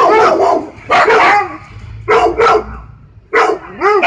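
Dog barking repeatedly in short bursts, with some barks coming in quick pairs.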